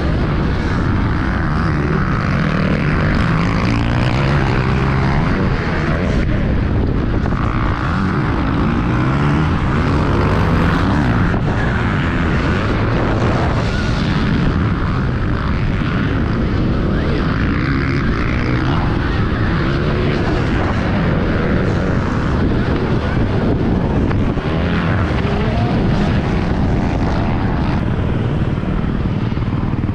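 Dirt bike being ridden around a motocross track, with heavy wind rushing over the microphone and a motor pitch that rises and falls.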